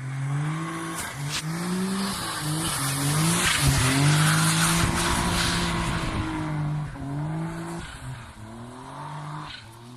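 Suzuki Alto Works' turbocharged K6A three-cylinder engine revving through a home-made 60 mm stainless one-off exhaust with a mid silencer, its pitch climbing, breaking and dropping back several times, with a longer steadier pull in the middle.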